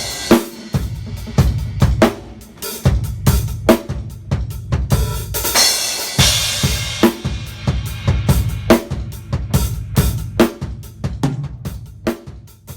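Drum kit played as a fill-heavy groove: snare and bass drum hits with hi-hat and crash cymbals ringing. The drumming dies away near the end.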